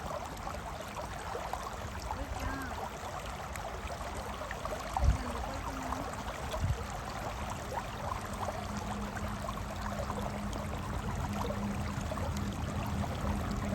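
Shallow river water running steadily, with two dull knocks about five and about seven seconds in, the first the loudest.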